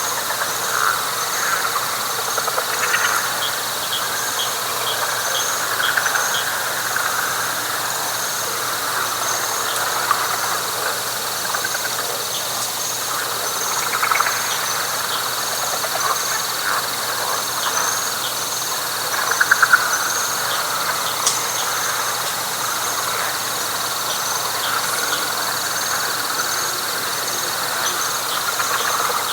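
Night chorus of frogs in a wet pine flatwoods, a thick swelling din, layered with a steady high trill and a regular high chirp about once a second.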